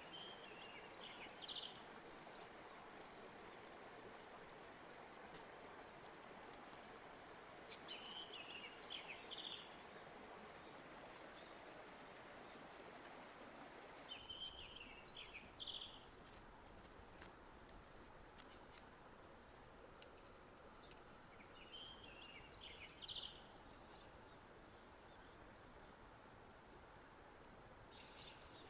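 A bird repeats a short chirping song phrase about every six or seven seconds, five times in all, over a faint steady outdoor hiss. A few faint clicks come in between.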